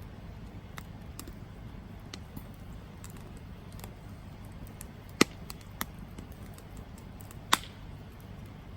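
Wood campfire burning with a steady low rumble and scattered crackles, and two sharp, loud pops about five and seven and a half seconds in.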